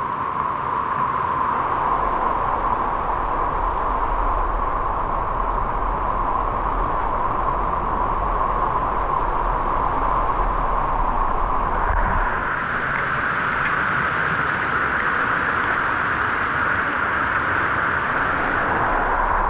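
Waterfall's rushing water, a steady rush of noise; about twelve seconds in it turns brighter and higher.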